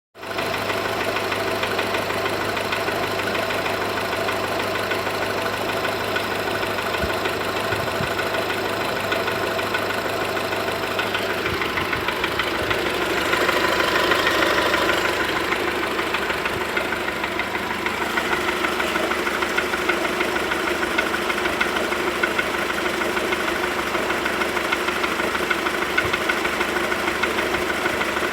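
Volkswagen Golf IV 1.4 petrol four-cylinder engine running cold with an abnormal engine noise. The sound is steady, changes about eleven seconds in, and grows briefly louder and brighter a couple of seconds later.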